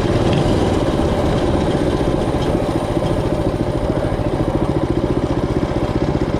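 Mini bike's small engine running steadily, its even firing beat growing more distinct in the second half.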